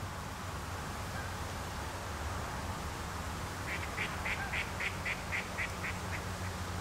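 A bird calling a run of about ten short, evenly spaced notes, roughly three to four a second, starting about halfway through and fading toward the end, over a steady low outdoor rumble.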